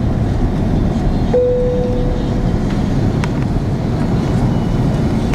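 Steady cabin noise of an Airbus A330 airliner on final approach: engine and airflow rumble. About a second in, a single clear tone starts sharply and fades out over about a second.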